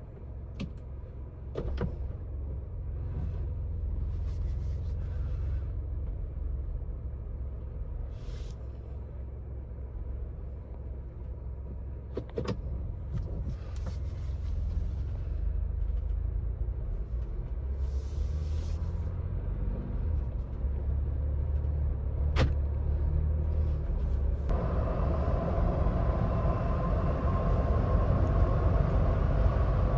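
Ford Bronco Badlands being driven: a steady low engine and road rumble that grows louder as it picks up speed, with a few sharp clicks. About 25 seconds in, tyre and wind noise jumps up and a faint whine climbs in pitch.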